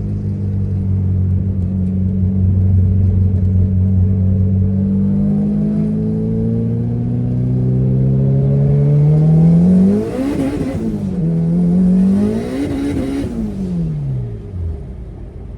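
Car engine accelerating. Its pitch climbs slowly, then rises steeply with a rushing hiss, dips briefly at a gear change about eleven seconds in, and climbs again. It then falls away steadily as the car slows near the end.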